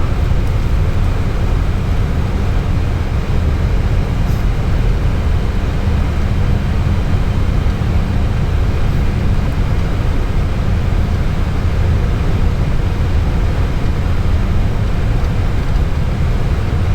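Steady low rumble of airflow and engines inside an airliner's cockpit during the descent, even in level with no change throughout.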